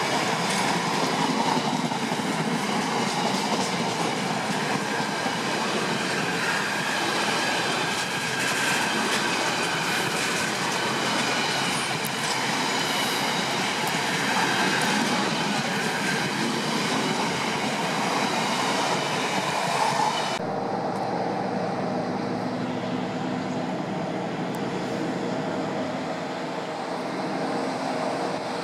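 Freight train of bogie coal hopper wagons rolling past close by, the wheels clattering steadily over the rails. About two-thirds of the way through the sound cuts to a duller, quieter hum with a steady low tone as a diesel locomotive approaches from a distance.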